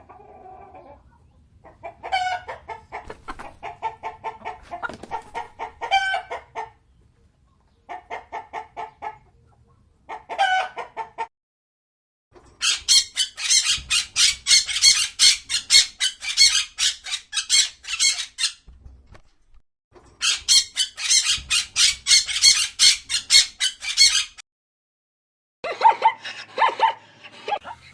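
Chickens clucking and calling in a series of short clips separated by brief silences, with two long stretches of rapid, dense calling in the middle.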